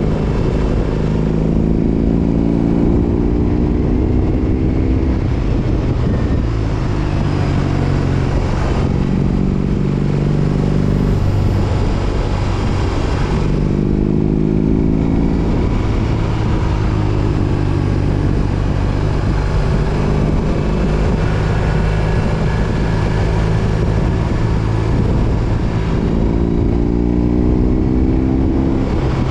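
BMW R18 Roctane's boxer-twin engine through a Freedom Performance 4.5-inch exhaust, riding along: the exhaust note climbs three times under acceleration, once near the start, once near the middle and once near the end, and holds a steady cruise between.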